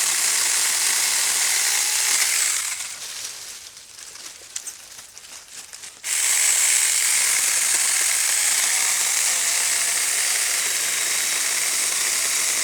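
Battery-powered electric mini chainsaw running under load as it cuts through a holly bush, a steady high-pitched noise. It goes quiet for about three seconds from about two and a half seconds in, then starts again and runs on.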